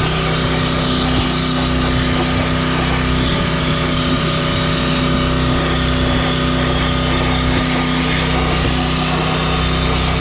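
Pressure washer with a wet sandblast kit running steadily: the small engine's even hum under a loud, dense hiss of high-pressure water and sand spraying.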